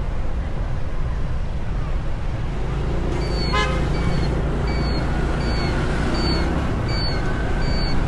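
Street traffic rumbling steadily, with a short horn toot about three and a half seconds in. A high, short chirp repeats about twice a second from then on.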